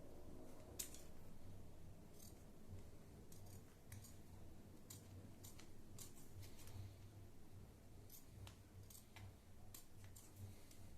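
Faint scissors snips, one every second or so, cutting away excess plastic from a part.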